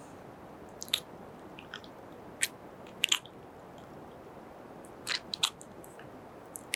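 Close-miked kissing and wet mouth sounds: brief sharp smacks and clicks, about six of them, spaced irregularly over a faint steady hiss.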